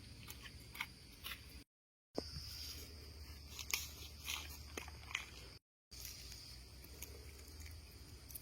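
Soft, scattered crunches and clicks over a faint steady high buzz, broken twice by a brief dropout to total silence, about two seconds in and again near six seconds.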